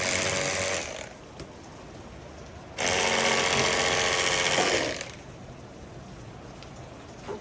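Calamus cordless electric fillet knife buzzing as its blades cut through a perch. One run stops about a second in, and a second run of about two seconds starts a little before the middle.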